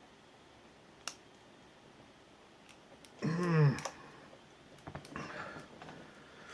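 Small clicks of lock picks working inside an ABUS 83/45 padlock, with one sharp click about a second in. About three seconds in, a short whining vocal sound rises and falls in pitch and is the loudest thing heard.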